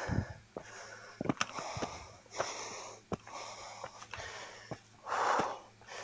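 A hiker breathing hard while climbing a steep trail, a series of heavy breaths about a second apart, with a few sharp clicks mixed in.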